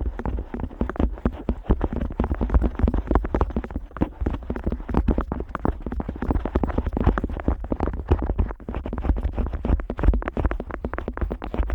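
Otoscope rubbing and tapping against the outer ear of a Neumann KU100 dummy-head microphone, close up: a dense, continuous run of clicks and scrapes.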